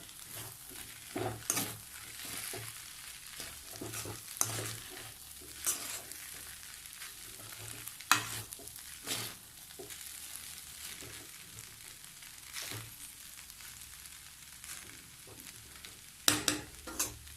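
Soaked flattened rice (avalakki) with onion and tomato sizzling quietly in oil in a pan, stirred with a spatula that scrapes and clicks against the pan every second or few.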